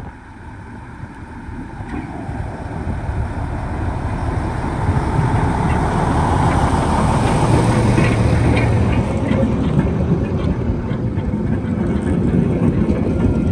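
Alderney Railway train of ex-London Underground 1959 stock cars running, growing louder over the first five seconds, then holding steady with a low hum.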